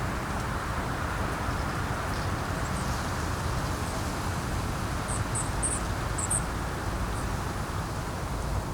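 Wind blowing on the microphone: a steady rushing noise, heaviest in the low end. A few short, high bird chirps come through, most of them in a quick cluster a little past the middle.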